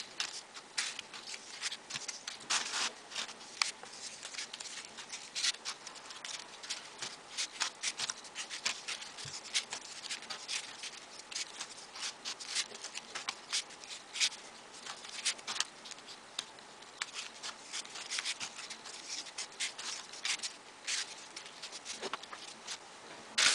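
Folded paper modules being pushed onto a 3D origami model: an irregular run of small crisp paper clicks and rustles, several a second.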